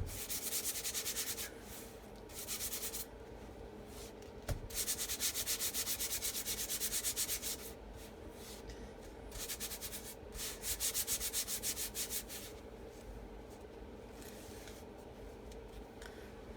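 Squeegee scraping chalk paste across a silkscreen transfer in quick back-and-forth strokes, coming in five bursts with the longest in the middle; a single light knock about four and a half seconds in.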